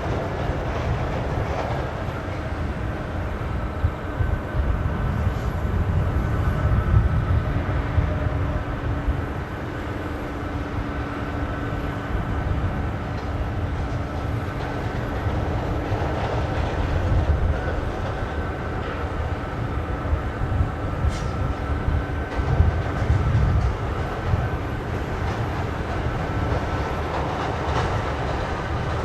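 C-17 Globemaster III's four turbofan engines running steadily: a low rumble under a held high whine, swelling a little now and then.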